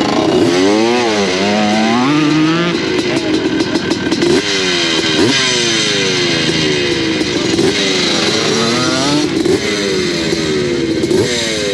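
Several motocross bikes racing on the track, engines revving hard, with a pitch that climbs and drops back at each gear change, about once a second. More than one bike is heard at a time.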